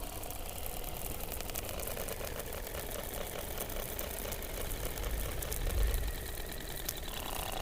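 Underwater sound from beneath the Antarctic ice, picked up by a hydrophone: a rapid, even train of pulses, about ten a second, over a wavering mid-pitched tone, with a low rumble swelling up around five to six seconds in and a falling tone starting near the end.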